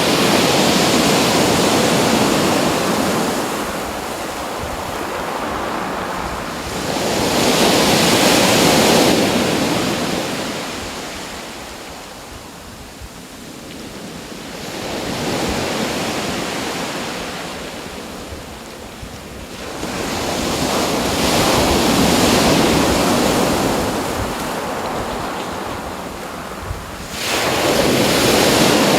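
Waves breaking on a shore: a rushing wash that swells and fades roughly every six to seven seconds, with one wave arriving suddenly near the end.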